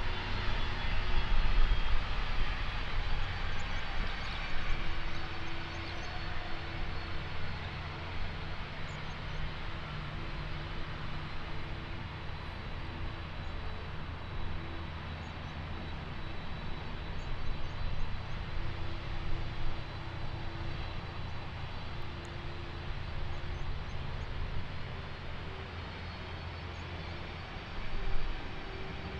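Jet airliner engines, loudest in the first couple of seconds, then easing into a steadier distant rumble, with a short swell near the end.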